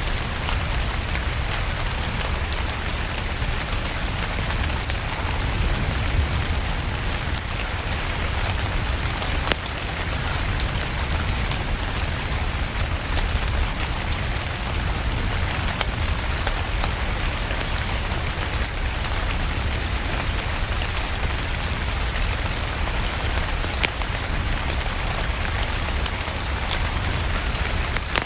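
Steady rain mixed with a crackling wood fire: an even hiss with a low rumble beneath it and many small, sharp crackles scattered throughout.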